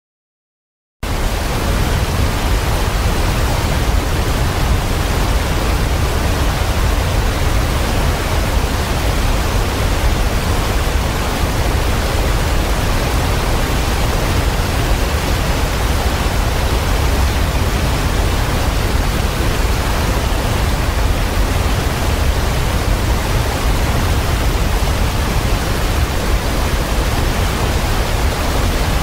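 Steady roar of a waterfall, a dense even rush of falling water, heavy in the low end. It starts abruptly about a second in, after silence.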